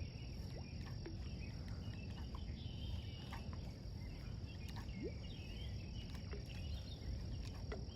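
Crickets trilling steadily in a faint outdoor background, with a low rumble underneath and a few short, faint higher chirps.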